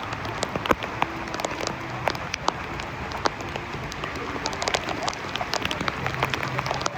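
Heavy thunderstorm rain pouring down steadily, with many sharp drop hits landing close to the microphone.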